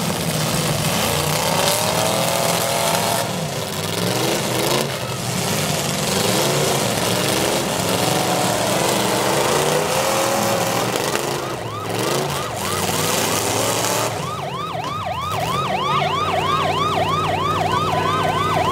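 V8 demolition derby cars' engines running and revving in a loud, noisy din. About twelve seconds in, a siren starts a fast yelp of about three rising whoops a second.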